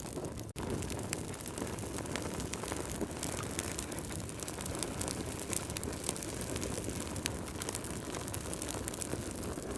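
Wood fire crackling, a steady low rumble of flames with many small sharp pops and snaps throughout. The sound drops out for a split second about half a second in.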